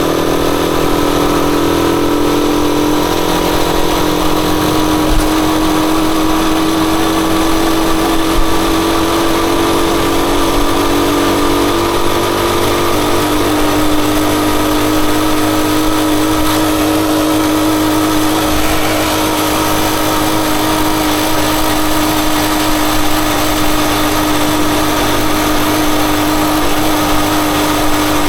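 Rusi Chariot 175 motorcycle engine running steadily. Its pitch drifts slowly and drops slightly about halfway through.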